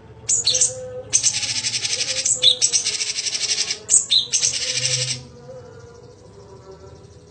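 Cucak cungkok (blue-winged leafbird) singing loud, fast, buzzy trills of rapidly repeated high notes in four bursts of about a second each. The bird stops about five seconds in.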